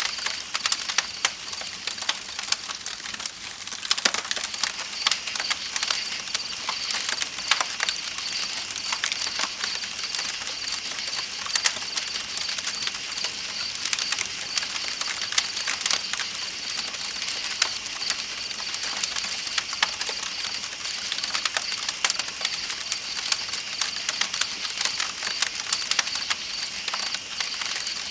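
Campfire crackling with frequent sharp pops over a steady hiss, with night insects keeping up a constant high trill and a river flowing underneath.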